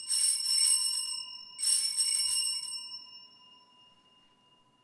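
Altar bells rung at the elevation of the chalice during the consecration: two shaken rings about a second and a half apart, bright and jingling, the second dying away over a couple of seconds.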